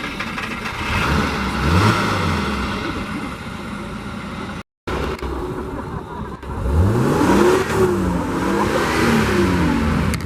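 Classic car engine being revved in blips: a short rev about two seconds in, then a run of three quick rising-and-falling revs from about six and a half seconds.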